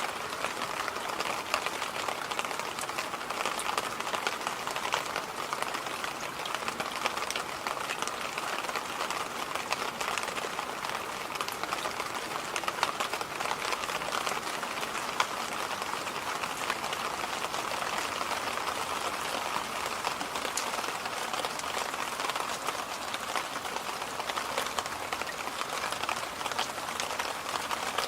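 Electric fan running: a steady rush of air with a fine crackle mixed in.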